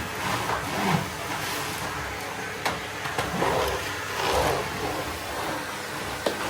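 Kärcher vacuum cleaner running, its motor noise swelling and easing as the nozzle is worked over the floor, with a few sharp knocks about three seconds in and near the end.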